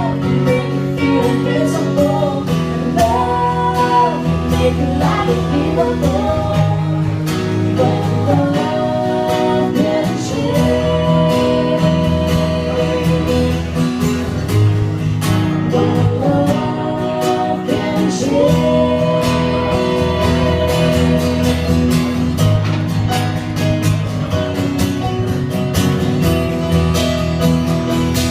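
Live acoustic song: acoustic guitar accompaniment with a voice singing the melody.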